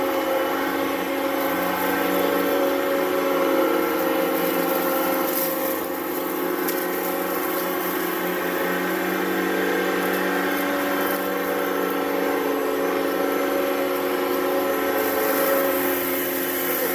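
Upright vacuum cleaner running steadily, its motor giving a constant pitched whine.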